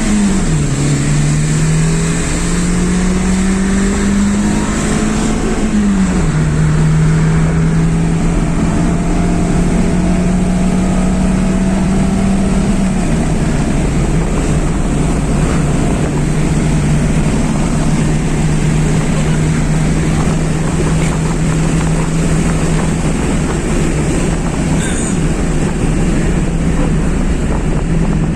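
A car engine pulling hard at high speed, its note climbing and then dropping sharply at two upshifts in the first six seconds. It then holds a steady note at cruising speed, under steady wind and road noise.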